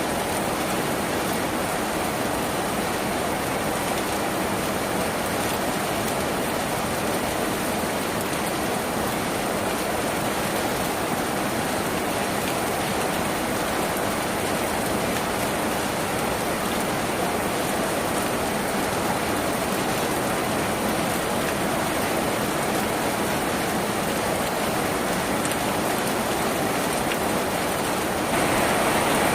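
Steady rain falling on a tin roof, a dense even patter. About a second before the end it gets a little louder.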